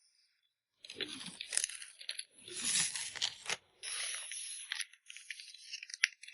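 Packing materials being handled for photocard packing: two bursts of rustling and crunching, then a finer, higher crinkling with small clicks.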